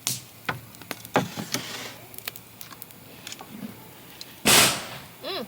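Campfire popping: a string of sharp pops and knocks, with one loud burst about four and a half seconds in, then a brief high squeak of a voice near the end.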